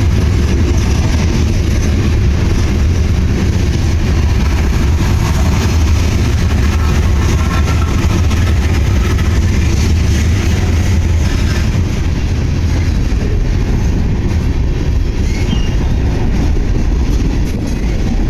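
Train passing, a loud steady rumble of rolling cars.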